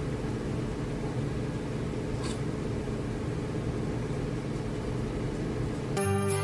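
Steady low mechanical hum with a noisy rumble, with one faint tick about two seconds in. Jingling music starts right at the end.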